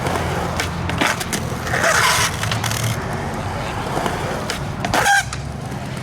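Skateboard wheels rolling on concrete with a steady rumble, broken by a few sharp clacks of the board, the loudest just after five seconds.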